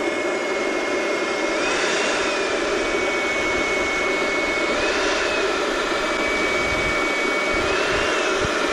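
A steady motor or engine whine, with a high tone that rises briefly and settles back about every three seconds.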